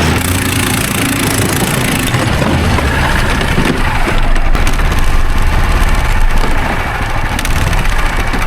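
Snowdog tracked snow machine's small engine running, under heavy wind buffeting the microphone in a blizzard.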